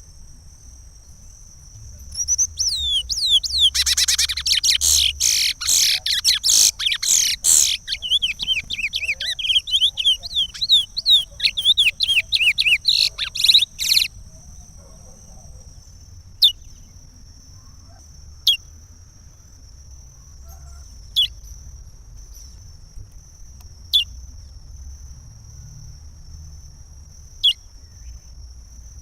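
Curió (chestnut-bellied seed finch) singing the Pará regional song type: a fast, dense run of sweeping high notes from about two seconds in to about halfway. After that come single short falling notes every few seconds, with a steady high-pitched tone underneath throughout.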